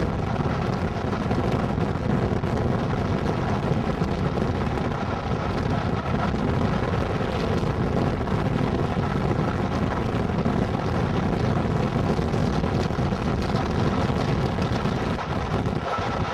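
Passenger train running at speed, heard from an open carriage window: a steady rush of wind and running noise from the wheels on the track, with a faint steady hum underneath.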